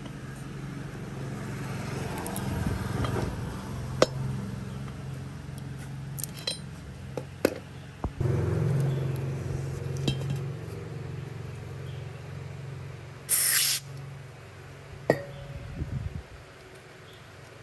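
Metal tools clinking and knocking against each other, with a steady low hum under them and one short hiss past the middle.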